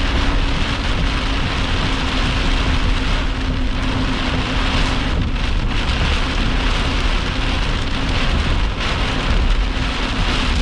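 Heavy rain on a vehicle's roof and windshield: a steady, dense noise, with a faint low steady hum underneath.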